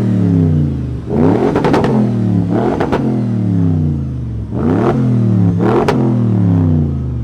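A car engine being revved in a series of quick throttle blips, about five, each rising sharply in pitch and then dropping slowly back toward idle.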